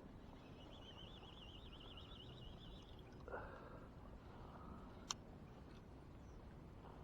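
Near silence, with faint outdoor background noise. A faint warbling trill lasts about two seconds near the start, a short swooping sound follows just after, and there is a single sharp click about five seconds in.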